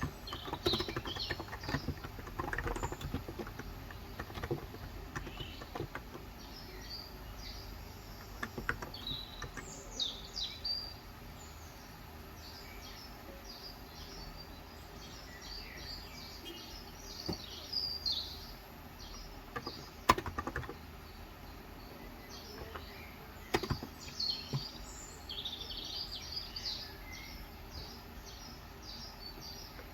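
Birds chirping steadily in the background, with bursts of keystrokes on a Cox Endeavour 35g electro-capacitive tenkeyless keyboard, mostly in the first third, then only a few isolated key clicks.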